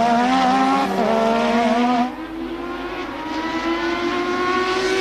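1988 Formula One race car engine running at high revs, with a gear change about a second in, a drop in pitch and level at about two seconds, then a steady engine note that slowly rises in pitch.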